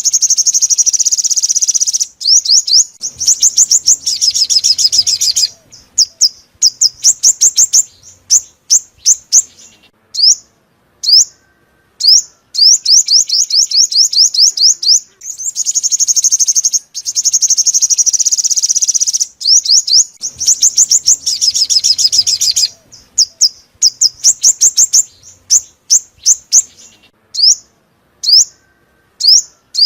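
Sunbird song: rapid, high-pitched trills alternating with bursts of sharp, separate chip notes and short pauses. The same phrase sequence comes round again about every 17 seconds, as in a looped lure recording.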